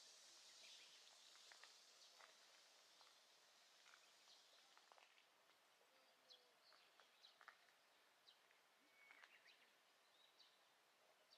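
Near silence: faint outdoor ambience with scattered faint bird chirps. A soft high hiss fades out over the first few seconds.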